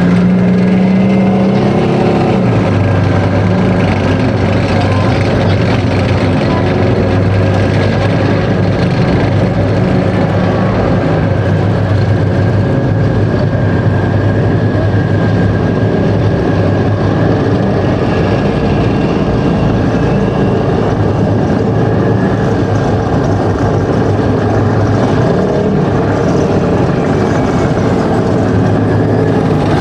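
Type 74 main battle tanks' air-cooled V10 diesel engines running loud and steady as the tanks drive past, with a steady high whine over the engine note.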